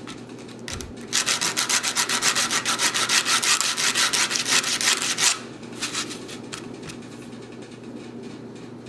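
Sandpaper being rubbed hard and fast over a painted metal fingerboard truck hanger, stripping the paint to bare metal, in quick back-and-forth strokes for about four seconds. A few slower, scattered strokes follow.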